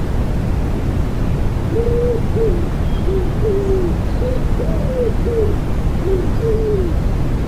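Common wood pigeon cooing, a run of about ten soft low coos in its phrased song, over a steady bed of white noise.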